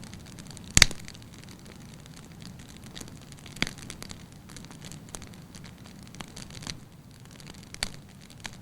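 Firewood burning in a fireplace, crackling: sharp pops, the loudest about a second in and others near the middle and near the end, with smaller ticks between, over a soft steady rush of the flames.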